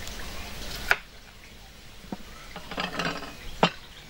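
Dishes and cutlery clinking and knocking: a few separate sharp clinks, with a quick cluster of them about three seconds in.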